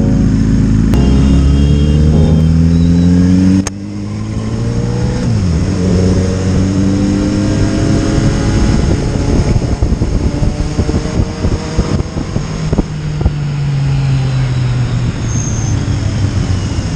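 Motorcycle engine accelerating in gear, its note rising for a few seconds, then dropping sharply at a gear change and climbing again. It runs on under heavy wind and road noise, with another rising, then falling, engine note near the end.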